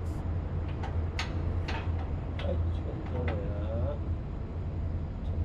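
A steady low machinery hum with about eight sharp clicks and knocks during the first three seconds, as hand tools are worked during motor alignment, and faint voices near the middle.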